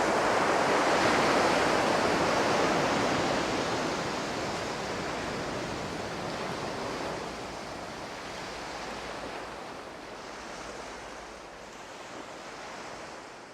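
Ocean surf: a steady rushing wash of waves, loudest at the start and fading out slowly.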